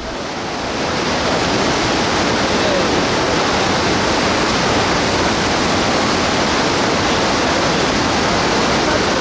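Mountain stream running high after monsoon rain, water rushing over rocks in a steady, full rush of noise that swells in over the first second.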